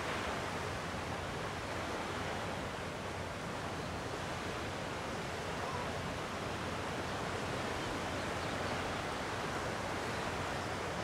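Gentle sea waves washing on the shore: a steady, even surf noise without distinct breaks, with some wind.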